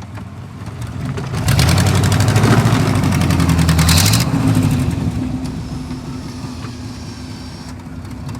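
A vehicle engine revving up for about two and a half seconds, a little over a second in, then dropping back to a steady idle.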